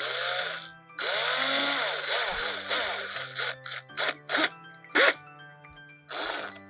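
Cordless drill driving a small screw into a battery-compartment lid, run in starts and stops: one longer run and several short trigger pulses, the motor whine rising and falling with the trigger. Background music plays throughout.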